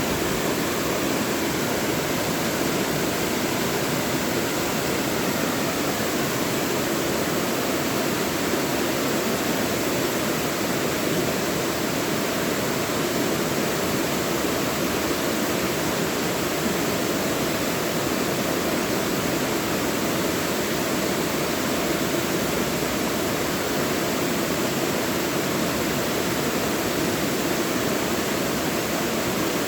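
Mountain valley stream flowing and splashing over rocks in a steady, even rush of water.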